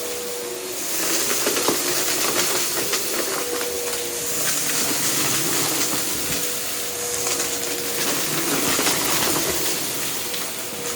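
Vacuum cleaner running and picking up a test mess: a steady motor whine under a strong hiss of airflow, with scattered small crackles of debris being sucked up.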